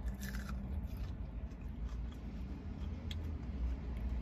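Biting into and chewing a crispy McDonald's chicken nugget: faint crunches near the start and again about three seconds in, over a low steady rumble.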